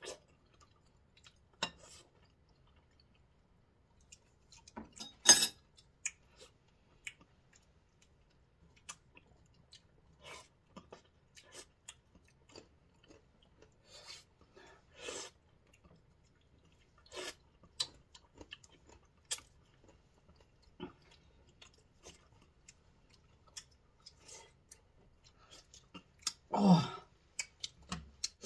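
Close-up chewing and mouth sounds of people eating soft fresh fruit such as mango, with scattered short clicks and taps of a fork and dishes. A louder click comes about five seconds in, and a brief voice sound near the end.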